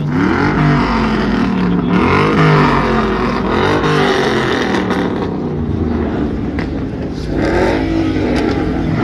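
Car engines being revved hard in short bursts, the pitch climbing and dropping about four times, with other engines running underneath.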